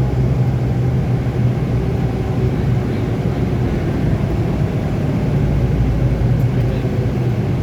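Interior sound of a Scania K280UB city bus: its diesel engine and running gear going steadily in the passenger cabin, with no clear rise or fall in pitch.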